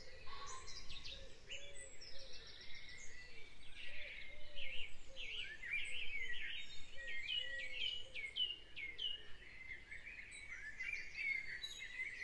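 Birds chirping and singing, many short calls overlapping, including a run of quick downward-sweeping chirps about two-thirds of the way through.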